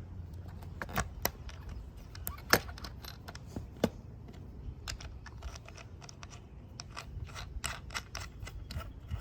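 Skate tool and skateboard truck parts clicking and clinking while a worn truck bushing is swapped: irregular small metallic clicks, the loudest about two and a half seconds in, over a low steady rumble.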